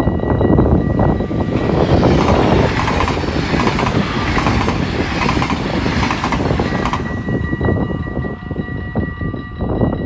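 A yellow double-deck passenger train passes over the level crossing at speed, with a loud rushing rumble from about a second and a half in until about 7 s. Before and after it, the crossing's warning bell rings in steady repeated strokes; the train's noise covers the bell while it passes.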